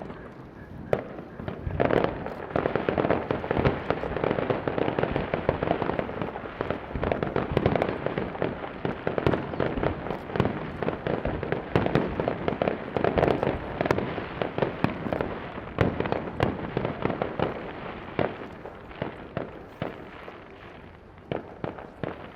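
Aerial fireworks display: a dense, rapid string of bangs in quick succession, building about two seconds in and thinning out near the end.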